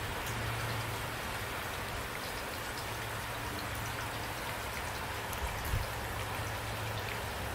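Steady rain, with single drops striking distinctly over an even hiss and a constant low rumble underneath. A short low thump comes a little before six seconds in.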